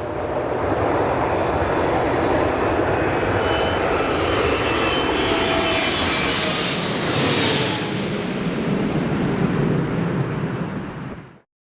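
Boeing 787-9's GEnx-1B turbofans passing by: a steady jet roar with high whining tones that glide down in pitch, the hiss loudest about seven seconds in, then cutting off suddenly near the end.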